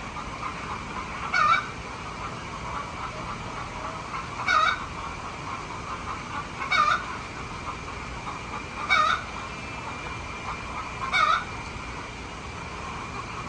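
Domestic fowl calling: one short call repeated five times at an even pace, about every two seconds, over a steady high-pitched hum.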